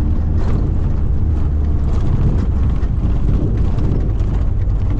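Steady low rumble of a vehicle's engine and tyres heard from aboard it while driving, with frequent short knocks and rattles from jolting over rough ground.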